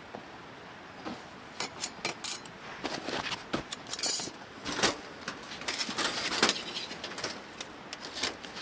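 Hard items clinking and clattering as camp gear is handled: a run of sharp clicks and short rattles that starts about a second and a half in.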